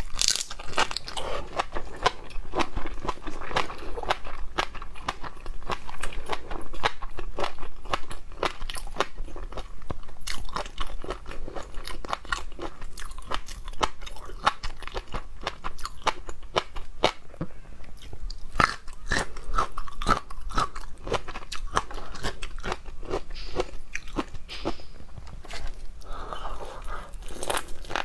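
A person biting and chewing seafood, with many quick crisp crunches all through.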